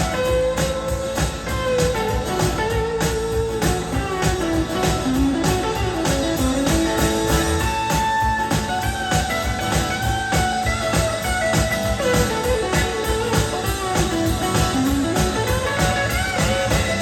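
A band plays an instrumental passage: a guitar carries a melodic lead with bending notes over a steady drum beat.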